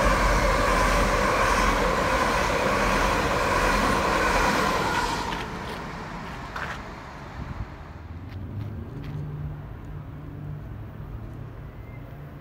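Electric multiple-unit train running past along the platform: a loud rush of wheels on rail with a steady whine, fading away about five seconds in. A quieter low hum is left after it.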